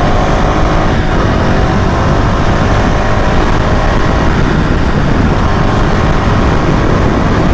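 Motorcycle riding at speed: heavy wind rush over the microphone with the engine running steadily underneath.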